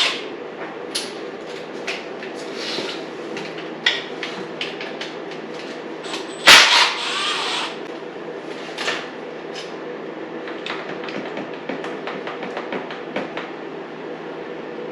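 Hand tools clinking and knocking against motorcycle engine parts during disassembly, with one loud metallic clank about six and a half seconds in that rings briefly, over a steady low hum.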